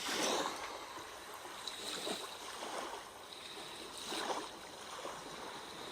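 Sea waves washing gently, swelling near the start and again about four seconds in.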